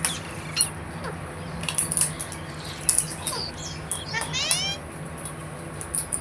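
Pet Indian ringneck parakeet (rose-ringed parakeet) chattering with short chirps and clicks, then a harsher call of rising notes about four seconds in, over a low steady hum.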